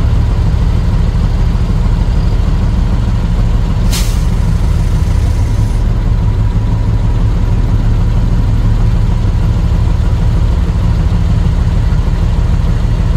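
Heavy diesel truck engine running steadily, with a sharp hiss of air from the air brakes about four seconds in that fades out over about two seconds.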